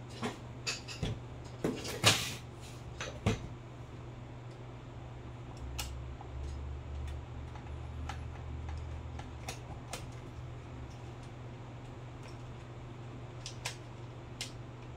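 A series of sharp clicks and knocks from hard objects being handled, bunched in the first few seconds with the loudest about two seconds in, then a few scattered clicks, over a steady low hum.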